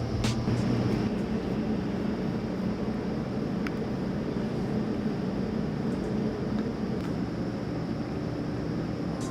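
A steady low rumble of background noise with no music.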